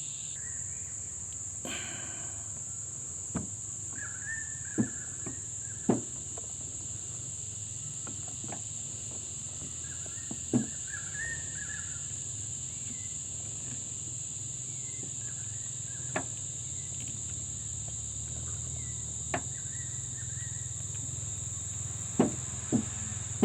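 Steady high-pitched insect chirring over a low hum, with scattered light clicks and knocks as brake caliper parts are handled.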